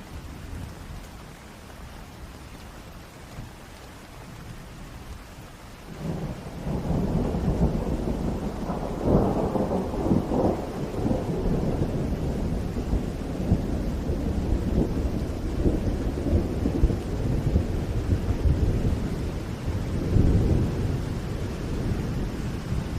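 Steady rain falling, then about six seconds in a long rolling rumble of thunder sets in over it, swelling twice and still going at the end.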